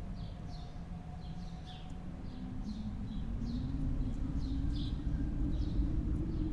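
Outdoor ambience of steady low wind rumble, with small birds chirping: short, high, falling notes about twice a second.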